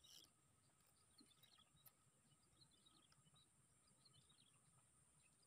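Near silence: faint outdoor ambience with scattered, faint bird chirps.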